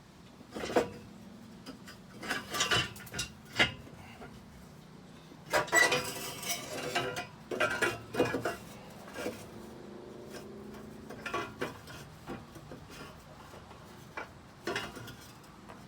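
Irregular metallic clanks and knocks, with a longer scraping stretch about six seconds in, as an old rusted steel exhaust pipe is worked loose and pulled out from under a pickup truck.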